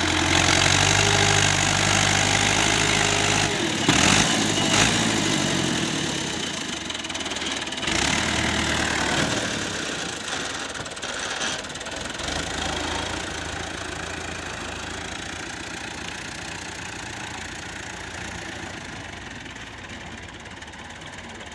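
Diesel farm tractor engine running under load, loud at first with a couple of sharp clanks about four and eight seconds in, then growing steadily fainter as it moves away.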